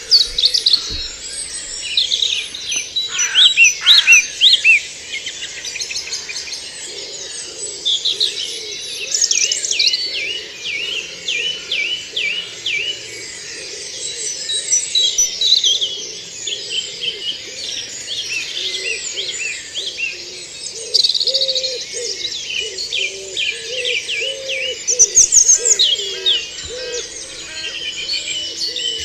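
Woodland dawn chorus in early May: many songbirds singing over one another in rapid trills and phrases, with a lower repeated call underneath in the second half.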